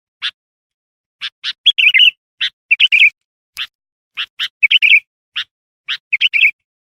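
Sooty-headed bulbul calling: pairs of short sharp chirps, each pair followed by a quick bubbly warbled phrase, repeated about four times with short gaps, stopping near the end. It is a lure call used to draw wild bulbuls in.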